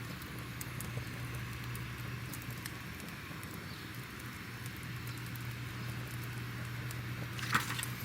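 Fireplace crackling ambience: scattered small pops and snaps over a steady low hum and soft hiss, with a short louder burst of clicks near the end.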